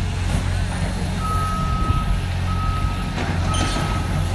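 Reversing alarm on heavy demolition equipment beeping in long, evenly spaced single-pitch beeps about once a second, starting about a second in, over the steady low rumble of the machine's engine running.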